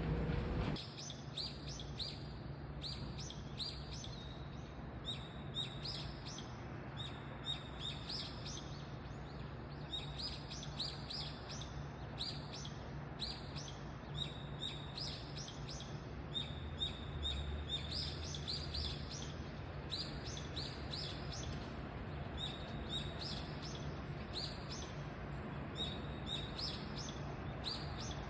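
Small birds chirping in short, quick notes, repeated again and again, over a steady low hum of city traffic.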